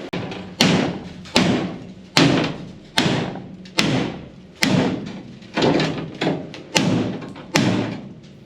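Repeated heavy strikes, about one every 0.8 seconds, each with a short ringing decay.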